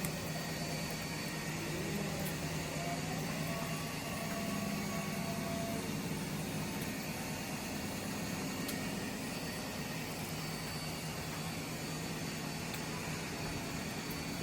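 Steady hiss of water spraying and falling, the shower a parrot is bathing under.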